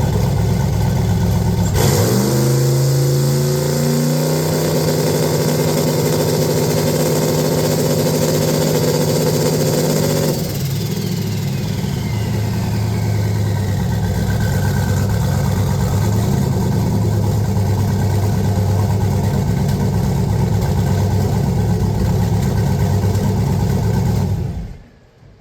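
Turbocharged LS V8 truck engine idling, then brought to full throttle against the transbrake about two seconds in: the revs climb and hold steady, building around 5 pounds of boost, for about eight seconds before dropping back to idle. A falling whine follows, and the engine shuts off just before the end.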